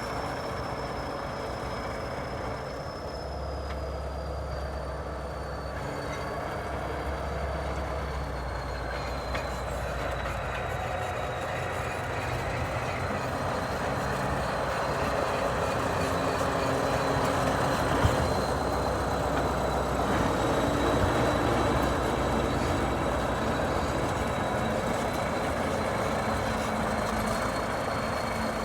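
Heavy diesel engine of a Soviet snow-clearing bulldozer or tractor running steadily under load, with a thin high whine above the rumble; it grows louder over the second half, with one sharp knock about 18 seconds in.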